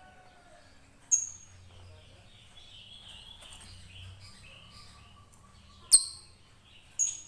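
Lovebird calling: three short, sharp, shrill chirps, one about a second in and two close together near the end, with softer twittering chatter between them.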